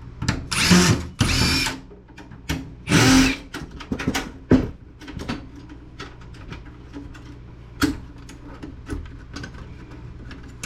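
Power drill spinning in three short bursts, backing out screws from a desktop computer's case, followed by scattered light clicks and knocks of small parts being handled.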